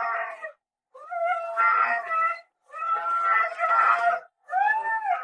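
A dog, not a husky, howling in husky-like drawn-out calls, about four of them with short breaks between; the last one rises and falls in pitch.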